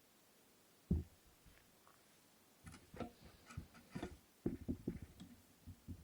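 Light knocks and clicks of a wooden inkle loom being handled: one sharper knock about a second in, then a run of small irregular taps and clicks from about three seconds on.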